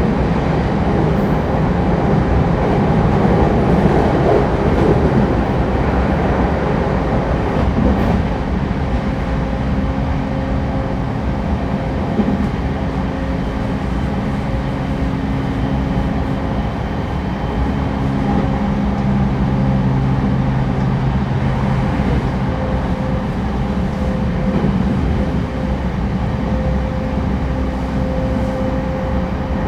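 Interior running sound of a renewed JR East E231-1000 series electric train at speed, heard from inside a passenger car: a steady rumble of wheels on rail with some steady humming tones that come and go.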